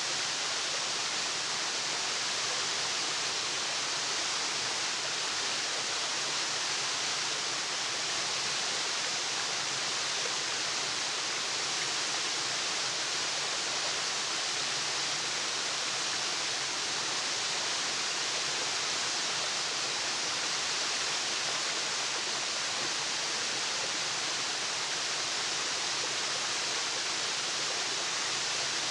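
Waterfall: a steady, even rush of falling water, with no birdsong or other events breaking through.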